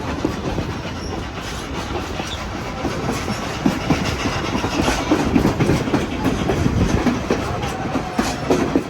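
Train running along the track: wheels clattering over the rails and the carriage rattling steadily, with many small knocks.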